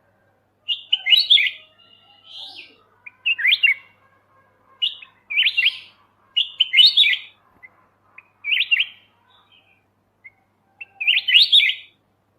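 Black-headed bulbul (kutilang emas) singing short, quick chirping phrases, about eight of them, with pauses between, and a longer pause shortly before the last one.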